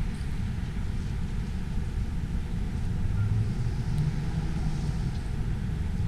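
Wind buffeting the microphone as a steady low rumble, with city traffic underneath; a vehicle's engine hum briefly rises about three seconds in.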